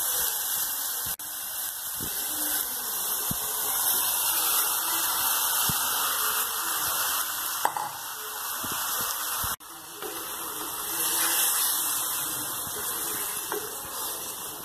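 Onions and tomatoes sizzling in hot oil in an aluminium pressure cooker pan, a steady frying hiss, with a wooden spatula now and then scraping and knocking against the metal as it stirs.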